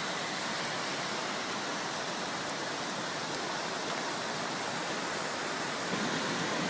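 Rushing floodwater: a steady, even rush of water.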